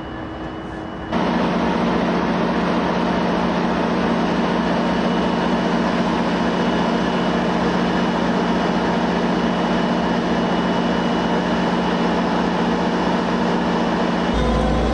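Diesel locomotive engine running at a steady speed, a loud constant drone with mechanical noise, starting abruptly about a second in.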